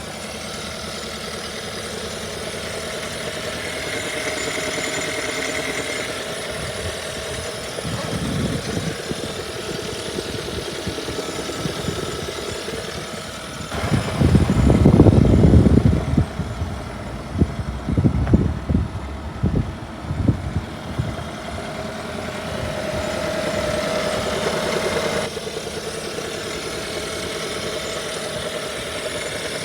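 2017 Hyundai Sonata plug-in hybrid's GDI four-cylinder engine running with a fast ticking. It gets louder for a couple of seconds about halfway through, followed by several irregular louder pulses. The dealer and a second mechanic call the ticking normal direct-injection noise, while another mechanic warned the engine would blow up.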